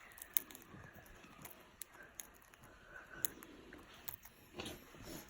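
Pet parrots cracking seeds in their beaks: about five faint, sharp clicks, spaced irregularly.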